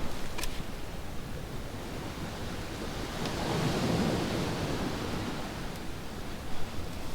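Ocean waves washing onto a sandy beach, with one swell of surf about three to five seconds in. A few sharp crackles from a wood campfire sound over the waves.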